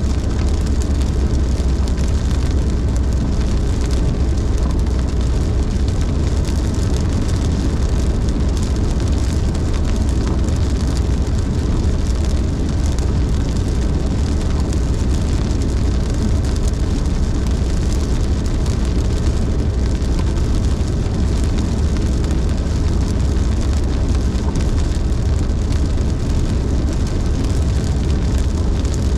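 Steady road noise of a car driving in heavy rain: a constant low rumble with an even hiss of rain and tyre spray over it.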